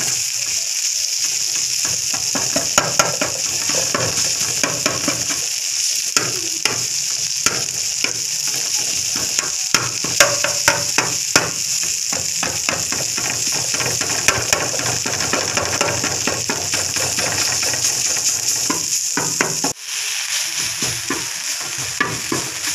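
Chicken sizzling as it fries on a hot iron tawa, with a steady hiss. A metal spatula scrapes and taps against the griddle in many sharp clicks as the chicken is stirred and spread.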